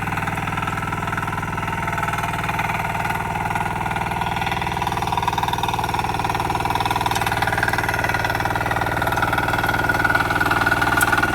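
Diesel engine of a power weeder with a rear rotary tiller running steadily, a little louder near the end.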